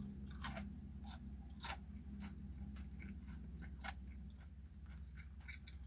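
Close-up chewing of crispy crumbed fried chicken on the bone, with a few sharp crunches from the coating over a low steady hum.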